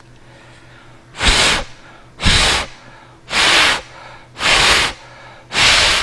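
Five puffs of breath blown straight onto a sensor board's sound-sensor microphone, about one a second, each a short rush of air noise. The blowing drives the sensor reading up to inflate the balloon in the program.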